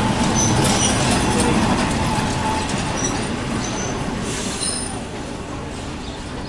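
A train rolling along the track, with brief high-pitched wheel squeals. It is loudest for the first few seconds and fades after about five seconds as it moves away.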